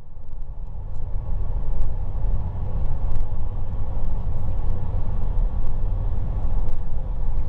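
Steady low engine and road rumble of a moving bus, heard from inside, with a few faint rattles.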